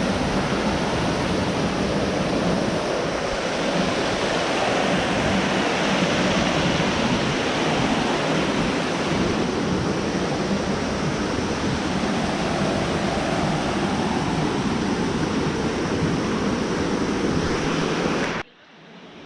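Steady rush of water from a waterfall and river, cutting off suddenly near the end.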